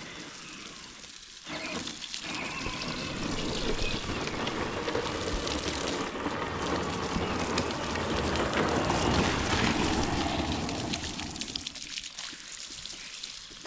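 Garden hose spraying water onto flower beds: a steady hiss of spray that starts about a second and a half in and fades out near the end.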